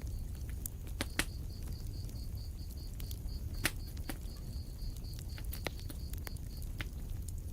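Wood fire in a fireplace crackling with scattered sharp pops over a low rumble of flames, two louder pops about one and three and a half seconds in. A thin, high, even chirping, about four or five pulses a second, runs alongside and stops near the end.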